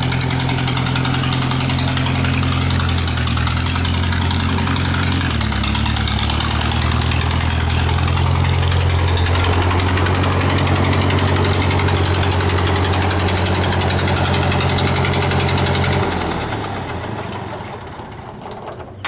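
Ford 8N tractor's four-cylinder flathead engine running steadily. Its pitch dips slightly about five seconds in, and the sound fades away near the end.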